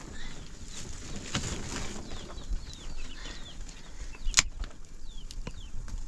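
Short chirping bird calls repeating, with a single sharp knock about four seconds in.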